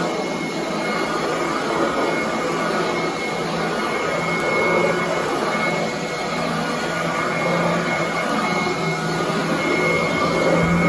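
Commercial upright vacuum cleaner running on carpet: a steady motor whine over a hum, swelling and easing gently in level.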